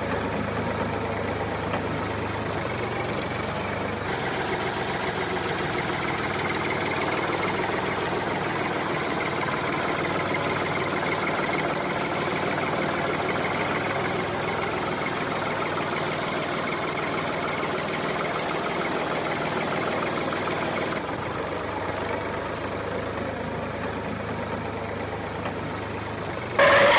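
A small motor running steadily without a break.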